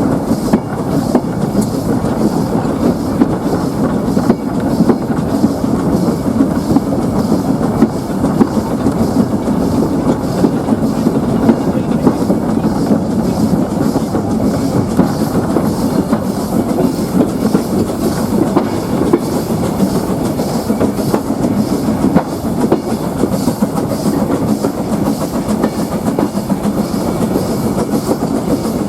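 A train running steadily along the track: a continuous loud rumble of wheels on rail with a fine, even clatter over the rail joints.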